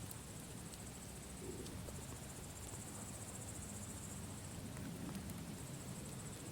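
Campfire crackling with scattered small pops over a low rumble, under a steady high trill of crickets chirping.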